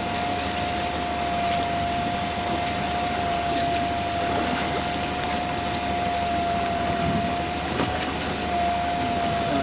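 A small fishing boat's machinery running steadily: a constant whine at one pitch over a steady rumble and wash of noise.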